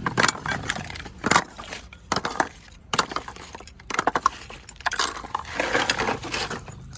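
Baked clay kulhad pieces being broken and crushed: irregular sharp crunches and crackles, coming thicker a little before the end.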